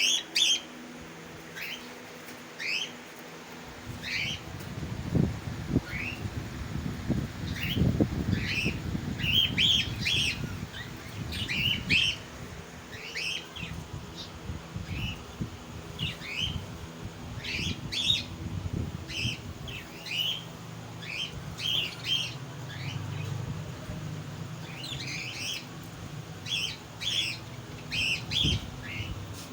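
A colony of budgerigars chirping, with many short, quick calls repeating throughout. A low rumble runs beneath them for a long stretch starting about four seconds in, and comes back near the end.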